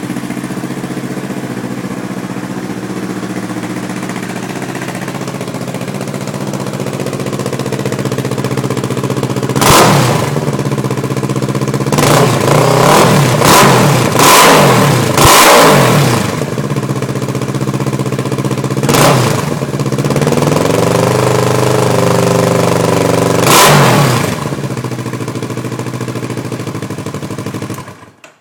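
2010 Kawasaki Versys 650's parallel-twin engine through a Jardine aftermarket exhaust with the silencer insert fitted. It idles steadily, then is revved in quick throttle blips, several in a row, and held at raised revs once. It cuts off suddenly near the end.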